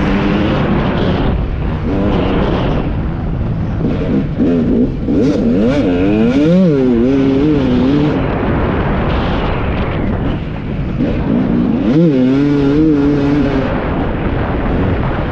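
Husqvarna TC 250 two-stroke motocross engine revving up and down as the bike is ridden, over a steady rushing noise. The pitch swoops up and falls back a few times around the middle and again briefly near the end.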